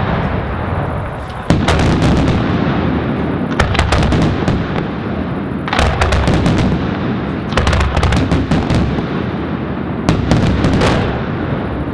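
Fireworks finale: aerial shells bursting in a continuous barrage of booms, with volleys of sharp bangs about every two seconds.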